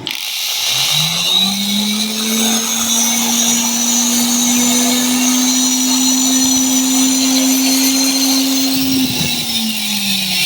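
Electric angle grinder switched on and spinning up with a rising whine, running steadily at full speed with a hissing high-pitched buzz, then switched off about nine seconds in and starting to wind down with a falling pitch.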